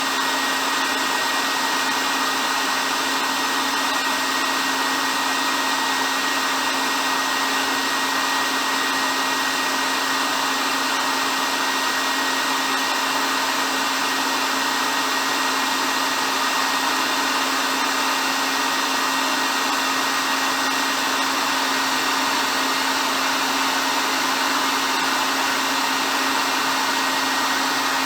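Hair dryer blowing steadily, an even motor-and-airflow noise with a faint steady hum and whine.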